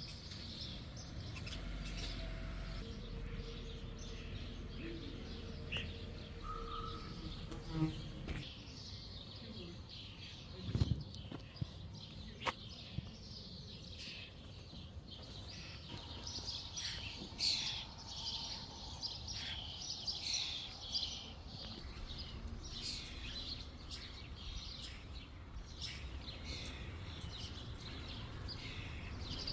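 Songbirds chirping and twittering, thickest about halfway through and after, over a steady low outdoor background noise, with a couple of sharp clicks near the middle.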